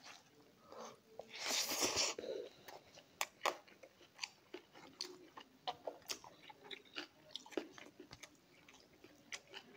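Close-miked eating of rice and stone fish curry by hand: wet chewing with many short lip-smacking clicks. A louder, brief rush of noise comes about a second in.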